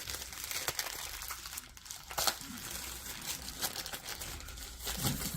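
Packaging crinkling and rustling in irregular bursts as the parts of a boxed stick vacuum are handled and unwrapped.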